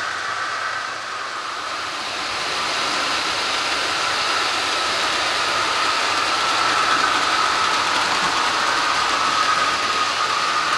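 Model train running on the layout, its DCC sound locomotive giving a steady hiss with a faint held tone, slowly growing louder over the first few seconds.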